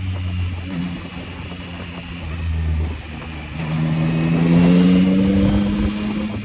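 Yamaha MT-09's inline three-cylinder engine running on the road, its note shifting over the first few seconds. About three and a half seconds in it accelerates, the engine note rising steadily to its loudest, then eases off near the end.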